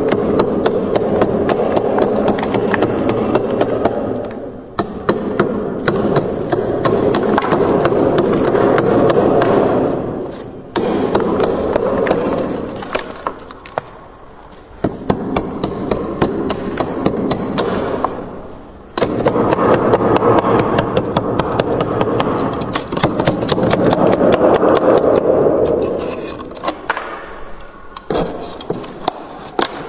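Thick freezer frost being scraped, a dense crackling scrape that runs in long strokes of several seconds with short breaks between. It thins to scattered crisp clicks near the end.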